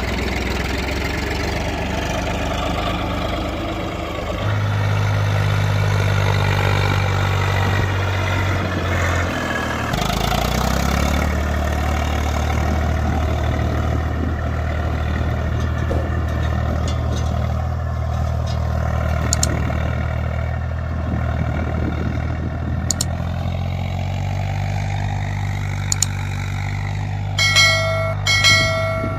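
Tractor diesel engine running steadily, its speed stepping up and down a few times. Near the end come two short beeps, each on one steady pitch.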